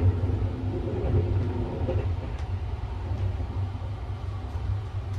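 Steady low rumble of the 285-series Sunrise Seto sleeper train running along the track, heard from inside a sleeper compartment.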